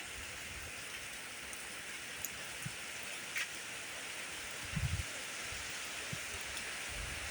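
Steady rain falling, an even hiss. There is a brief low rumble about five seconds in.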